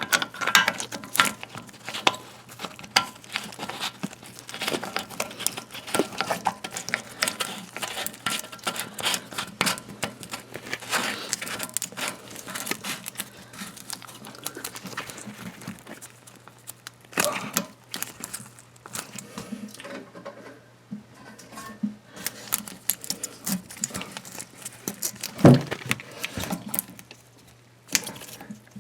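Hands connecting and tightening the water supply line's coupling nut onto a toilet fill valve: a busy run of small clicks, taps and scraping as the fittings are handled and threaded. A couple of louder knocks come about 17 and 25 seconds in.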